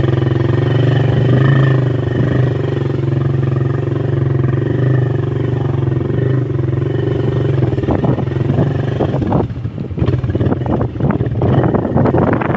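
Motorcycle engine running at a steady speed. About three-quarters of the way in, it gives way to rough wind buffeting on the microphone.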